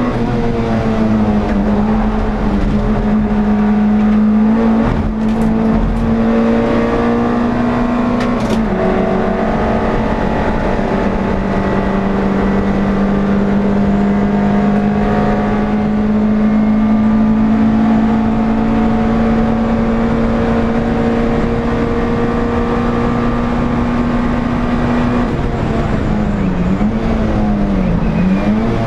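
Air-cooled four-cylinder engine of an NSU TT race car, heard from inside the car, running hard at high revs with a steady note that steps down slightly about eight seconds in. Near the end the revs fall and rise twice in quick succession.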